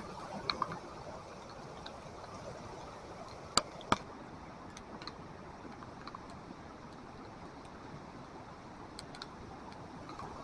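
Flooded creek running high in a flash flood: a steady rush of water. Two sharp clicks about a third of a second apart come a little after three and a half seconds in, with a few fainter ticks scattered through.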